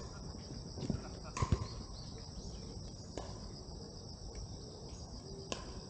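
A steady, high-pitched insect chorus, crickets or cicadas chirring. A few short knocks sound over it, the loudest about a second and a half in.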